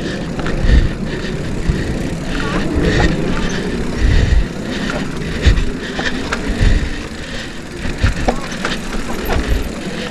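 Mountain bike riding a dirt trail: a steady rush of wind and trail noise on the microphone, broken by repeated thumps and rattles as the bike goes over bumps.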